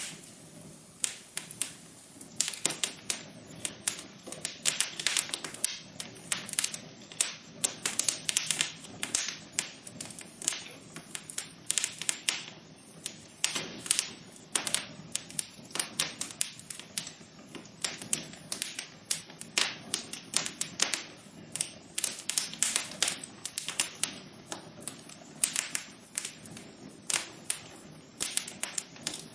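Wood fire in a fireplace crackling, with irregular sharp pops and snaps several times a second over a soft steady hiss.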